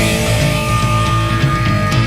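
Rock band playing with electric guitar and drums, a chord held over steady drum hits.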